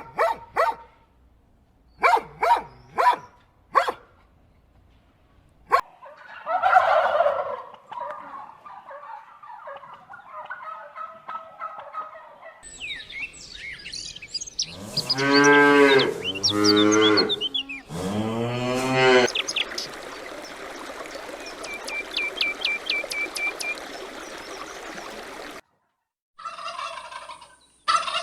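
A string of farm-animal calls from separate clips. The loudest is a cow mooing, three long low calls in quick succession about halfway through. It is preceded by shorter bird calls and followed near the end by the start of a turkey gobbling.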